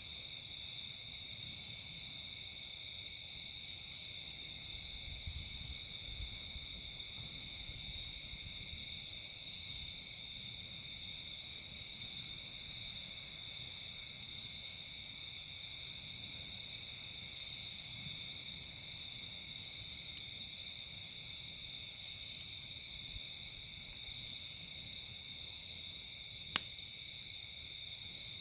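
Steady, unbroken chorus of insects, with faint high pulses repeating every few seconds above it. A single sharp pop near the end.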